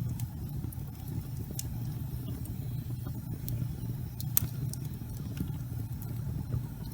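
Fire burning in a fireplace: a steady low rumble of flame with scattered sharp crackles and pops, one louder pop a little over four seconds in.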